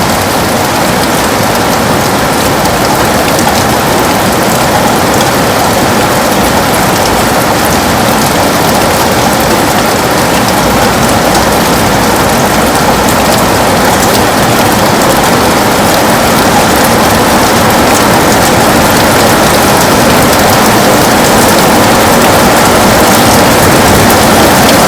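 Heavy rain falling on a window: a dense, steady hiss of rain that grows slightly louder over the stretch.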